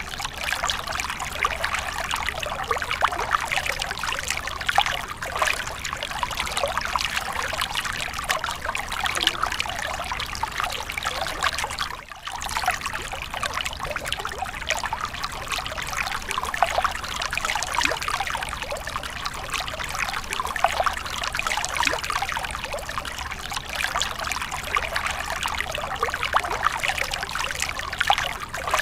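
Water trickling and splashing steadily, a continuous bright rush full of small irregular splashes, with a brief dip in level about twelve seconds in.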